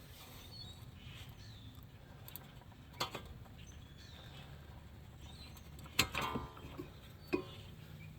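A few light clicks and knocks from hand work on a car's front brake assembly: one about three seconds in, a short cluster around six seconds and another shortly after, over a faint low hum.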